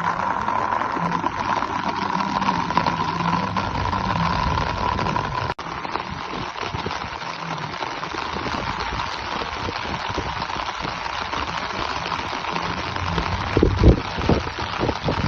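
Rain falling and pattering on surfaces, a steady downpour. About five and a half seconds in the sound breaks off for an instant and resumes denser, and there are a few low thumps near the end.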